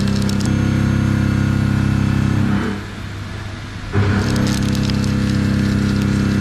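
Heavy industrial machine running in repeating cycles: each cycle starts with a clank and a loud low hum, holds steady for about three seconds, then drops back. It starts again about four seconds in.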